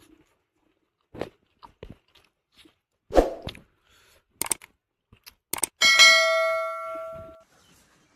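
Scattered knocks and clatter of metal cookware, then a metal vessel is struck about six seconds in and rings with a clang that fades over about a second and a half.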